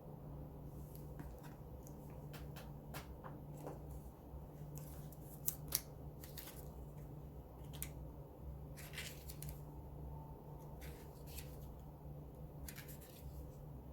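Light handling of cards and paper: scattered short rustles and clicks, with two sharper clicks about five and a half seconds in, over a low steady hum.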